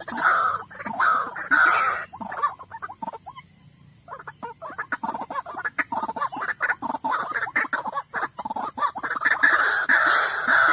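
White-breasted waterhen calls: repeated calls about twice a second, breaking into a rapid stuttering run of clucks in the middle, then the repeated calls resume near the end.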